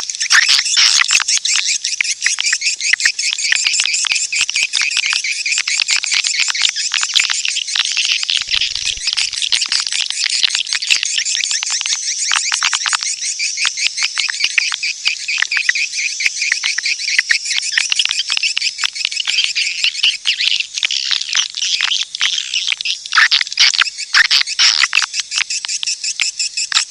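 Swiftlet lure-call recording: a dense, unbroken stream of rapid, high chirps and twitters, the call played to draw swiftlets into a nesting house.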